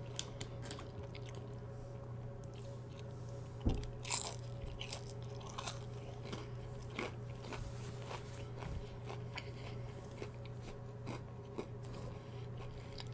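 Close-miked chewing of fried fast food: scattered wet mouth clicks and crunches, the loudest couple of crunches about four seconds in.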